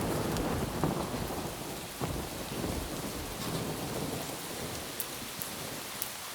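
Steady rain with rolling thunder: a low rumble that is loud at the start, swells again briefly about two seconds in, and fades away over the first few seconds, leaving the rain hiss.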